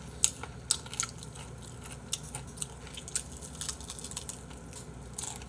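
Close-miked chewing of pizza: many short, irregular mouth clicks and smacks.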